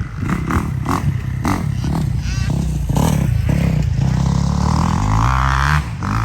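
Small dirt bike engine, a KTM 65SX two-stroke, revving up and down as it is ridden, with clattering knocks in the first couple of seconds, then held at a steadier higher pitch from about five seconds in.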